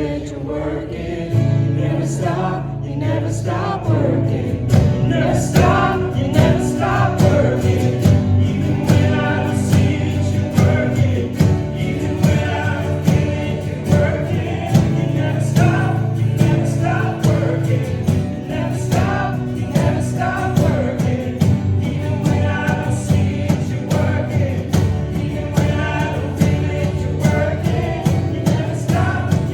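A church choir singing a gospel worship song with a band: sustained bass notes and a steady drum beat under the voices.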